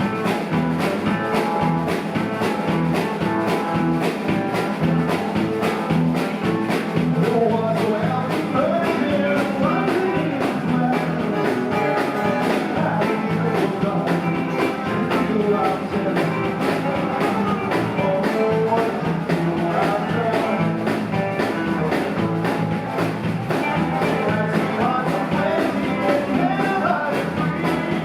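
Live rock band playing, a wavering guitar melody over a steady drum beat.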